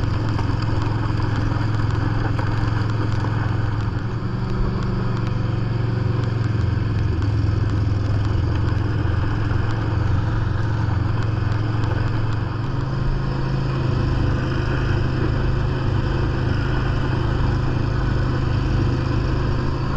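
John Deere lawn tractor engine running steadily under load while driving a 44-inch snowblower through compacted snow, with the blower's rushing noise over it. The engine note steps up slightly about two-thirds of the way through.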